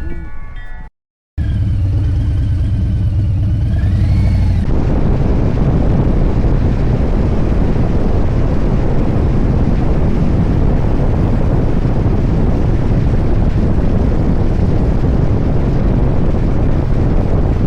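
Harley-Davidson Street Bob's Milwaukee-Eight V-twin running at riding speed. After a brief dropout about a second in, the engine's low rumble is heard, then from about five seconds in heavy wind noise on the microphone swamps it.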